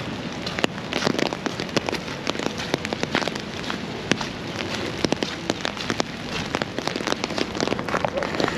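Rain falling: a steady hiss with many irregular drops tapping sharply close to the microphone.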